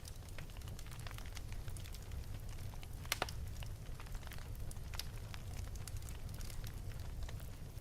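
Wood fire burning in an open fireplace, crackling with scattered sharp pops over a steady low rumble of the flames; the loudest pop comes about three seconds in.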